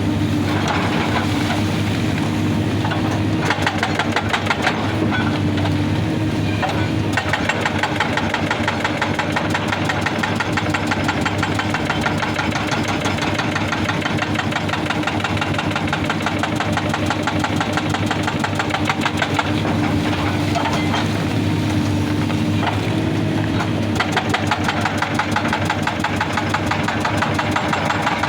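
Excavator's hydraulic rock breaker hammering rock in a rapid, steady stream of blows, over the excavator's diesel engine running under load.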